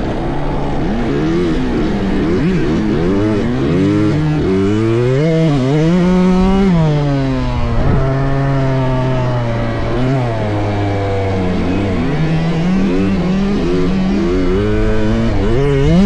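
Several small two-stroke motocross bikes revving on a track, their overlapping engine notes rising and falling with throttle and gear changes.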